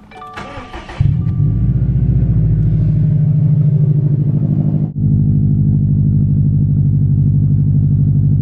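2019 Subaru WRX STI's 2.5-litre turbocharged flat-four being started: after a dashboard chime the engine catches about a second in and settles into a loud, steady idle with an even, pulsing exhaust rumble. There is a brief break near the middle, then the same idle continues.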